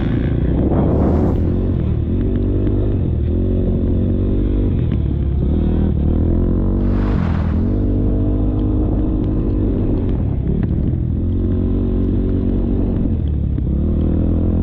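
KTM motocross bike engine revving hard and backing off again and again as the rider works through the track, heard from an onboard camera. Two short bursts of rushing noise cut in, near the start and about halfway through.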